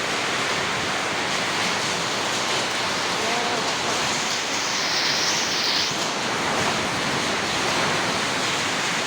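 Heavy rain and hail coming down in strong wind, a steady rushing noise that turns briefly hissier about five seconds in.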